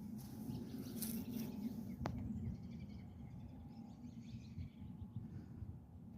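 Quiet outdoor background with a steady low rumble and faint bird chirps, and one sharp click about two seconds in.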